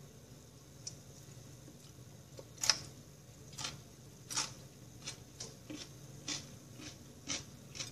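Chewing a mouthful of fried black rice with nuts: about a dozen short, crisp crunches and mouth clicks at uneven intervals, the loudest about three seconds in. A faint steady low hum runs underneath.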